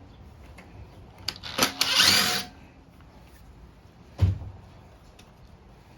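Cordless drill or power driver run in a short burst of under a second, backing out a fastener on the mower's carburetor, with a couple of clicks just before it. A single dull thump follows a couple of seconds later.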